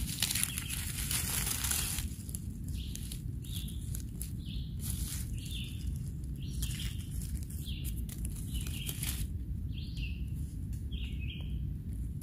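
A bird calling in short repeated notes, one every half second to a second, over a steady low rumble. The first two seconds hold a loud rustling noise.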